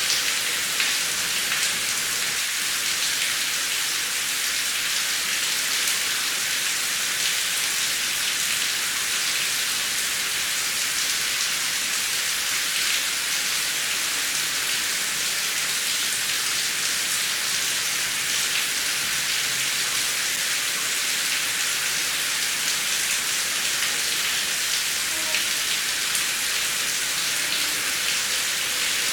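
Heavy rain falling steadily, a dense hiss of drops with fine pattering and no thunder.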